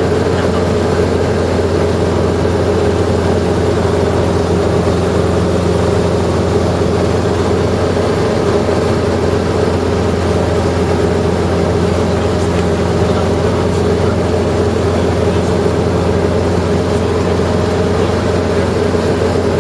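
Helicopter engine and rotor running steadily, a loud, unchanging drone with a deep hum underneath.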